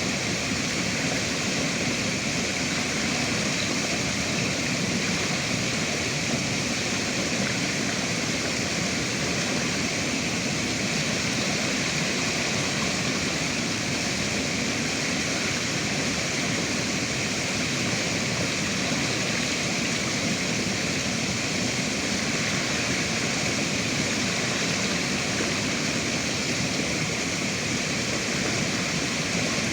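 Flowing river water rushing steadily and evenly, with no breaks or separate splashes.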